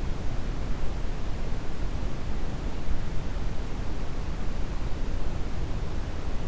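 Brown noise: a steady, deep hiss with most of its weight in the low end, without change or events.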